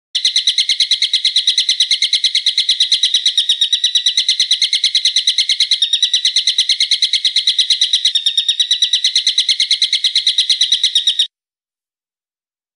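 A bird call played as a masteran training recording: a long, loud trill of rapid, evenly repeated sharp high notes, which stops abruptly near the end.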